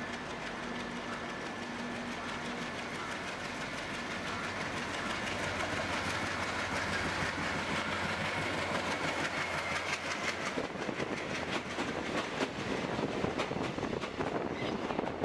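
Indian Railways diesel locomotive approaching on the next track, its running growing steadily louder as it draws alongside. Near the end its passenger coaches pass close by, with a quick rhythmic clickety-clack of wheels over the rail joints.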